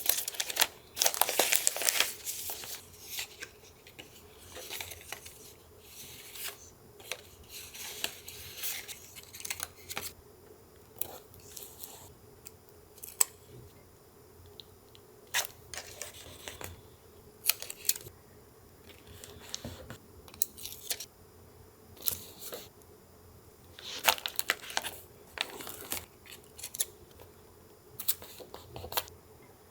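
Paper being torn and handled for a junk-journal collage: a dense stretch of tearing and rustling for the first two seconds or so, then scattered short crinkles, scrapes and taps of paper at irregular intervals.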